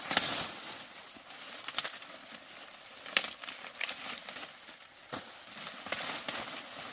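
Rustling and crinkling of dry plant material being handled, with a few sharp snaps.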